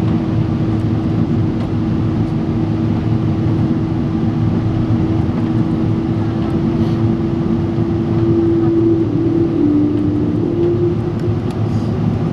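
Boeing 777-300 airliner cabin noise: a steady roar of the engines and airflow, with an engine hum whose pitch shifts slightly about eight to ten seconds in.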